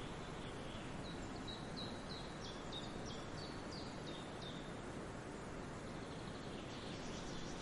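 A songbird singing a fast run of short high notes, each falling in pitch, about three a second, that stops about halfway through. Fainter chirps come near the end. Under it all runs a steady rushing background of forest ambience.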